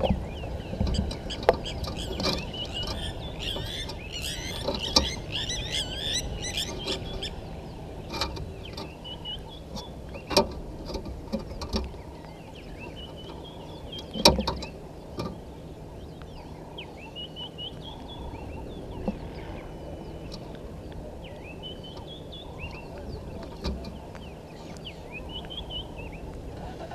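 Birds chirping: a dense flurry of short rising-and-falling calls in the first several seconds, then scattered calls. Sharp knocks and rustling from a vervet monkey moving against the camera break in every few seconds, the loudest about halfway through.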